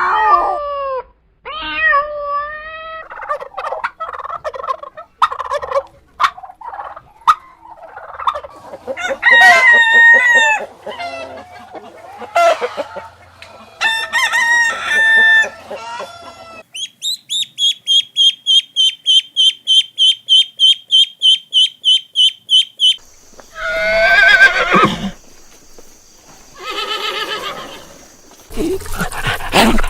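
Chickens calling in a series of short cuts: roosters crowing and hens clucking, including a run of rapid, evenly repeated high-pitched calls for several seconds in the middle.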